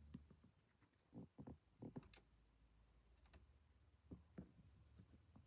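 Near silence, broken by a scattering of faint clicks and soft taps, a few of them close together about a second in.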